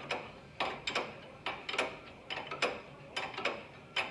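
Hand ratchet clicking in short, irregular strokes, a few sharp clicks a second.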